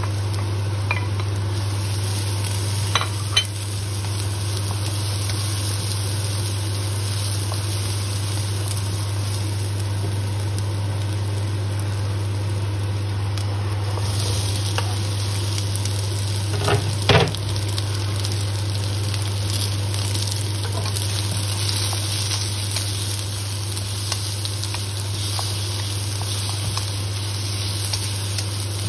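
Garlic and ginger sizzling in hot oil in a wok, stirred with a wooden spatula, with a few sharp clacks against the pan. About halfway through, diced onion is tipped in and the sizzle gets brighter. A steady low hum runs underneath.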